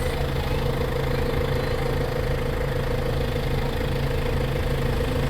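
Tractor engine running steadily at an even speed, with a constant low drone and a steady higher hum.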